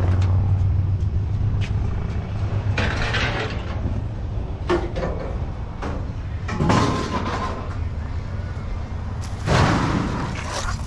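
A vehicle engine running low and steady, with three louder clattering bangs about three, seven and ten seconds in, typical of scrap metal being handled or dropped.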